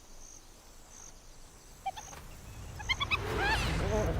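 Spotted hyenas calling: a quick run of high, rising-and-falling calls starts about three seconds in and grows louder over a low rumble. Before it, faint insect chirps repeat at an even pace.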